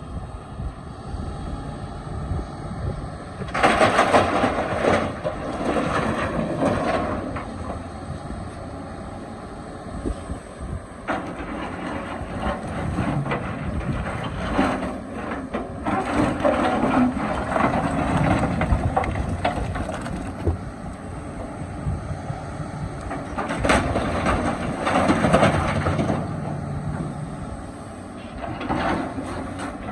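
Excavator engine running while it works, with louder, noisier surges about four seconds in, in the middle and a few seconds before the end, as the machine digs.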